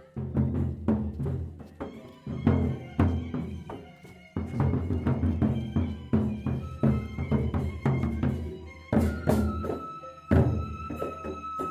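Sasak gendang beleq ensemble playing: large barrel drums beaten in a driving, uneven rhythm of heavy strikes with cymbal clashes over them, and a bamboo suling flute line holding a high thin note toward the end.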